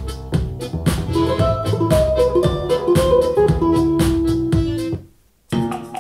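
Instrumental jazz played back through a hi-fi loudspeaker and picked up by a microphone, with a steady beat and bass notes. About five seconds in it stops; after a half-second gap a new track starts with plucked guitar.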